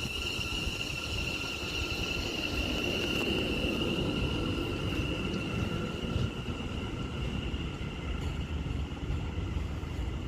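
West Midlands Railway Class 730 electric multiple unit pulling out of the station: a steady high electric whine over the low rumble of the train, fading in the second half.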